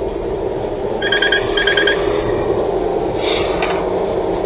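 Steady road and engine noise heard from inside the cabin of a moving Toyota Tank. About a second in come two quick runs of four short electronic beeps.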